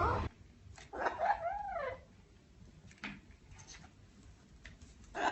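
A single short whine, rising and falling like a dog's whimper, about a second in, followed by quiet with a few faint clicks.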